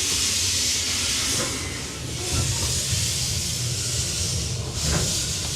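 Narrow-gauge steam locomotive pulling its train away, steam hissing in long surges with the low rumble of the train beneath, growing stronger a couple of seconds in.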